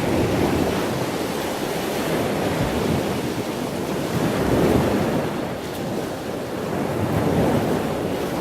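Wind buffeting the microphone: a loud, steady rushing that swells and eases a few times.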